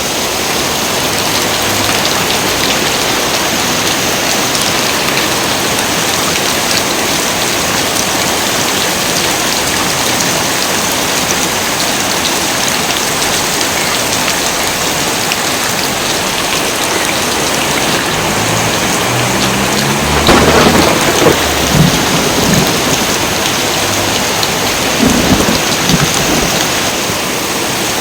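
Heavy rain pouring steadily. About two-thirds of the way through, thunder rumbles in, with two louder peaks a few seconds apart.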